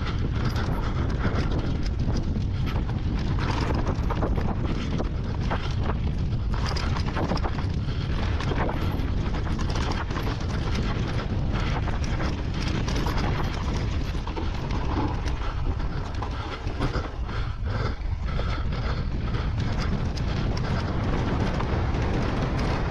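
Wind rumbling on the microphone of a moving bicycle, with irregular clicks and rattles from the bike running through it.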